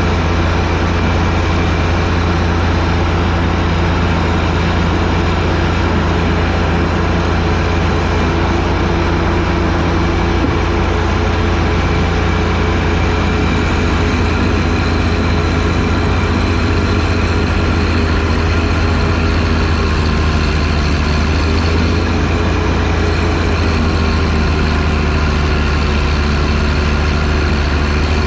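John Deere 1025R tractor's three-cylinder diesel engine running steadily while driving a 47-inch front snowblower, with a slight waver in pitch about two-thirds of the way through.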